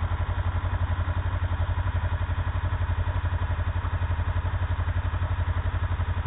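Ford Escort RS2000's four-cylinder engine idling steadily with an even, rapid pulse, heard from a roof-mounted camera.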